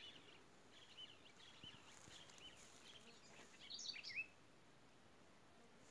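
Faint chirping of small birds, many short calls, with a louder cluster of calls about four seconds in.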